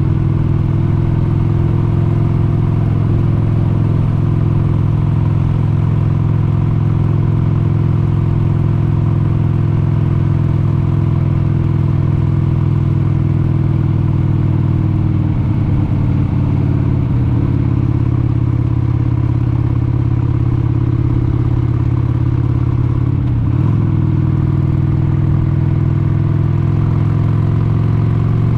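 1996 Harley-Davidson XLH883 Sportster Hugger's 883 cc Evolution V-twin running while riding at a steady cruise. The engine note breaks briefly twice, about halfway and about two thirds through, and climbs slowly near the end.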